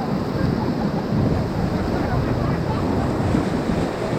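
Steady rush of whitewater rapids, with wind buffeting the microphone.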